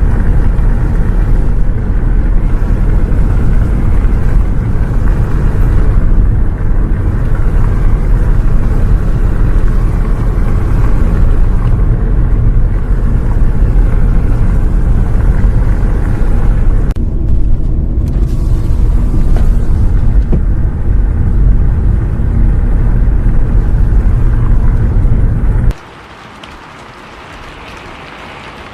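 Heavy, steady low rumble of a bus on the road in the rain. About 26 seconds in it drops suddenly to a much quieter, thinner noise.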